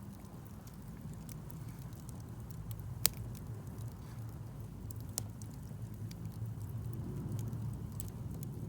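Wood campfire burning: a steady low rumble with scattered small crackles. A sharp pop comes about three seconds in and another around five seconds.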